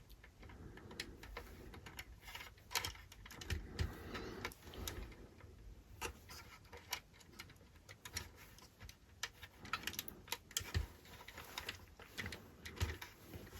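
Small plastic model-kit parts being handled and fitted on a work surface: irregular faint clicks and taps.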